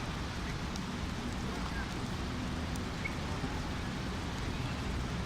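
Steady rain falling, an even continuous hiss over a low rumble.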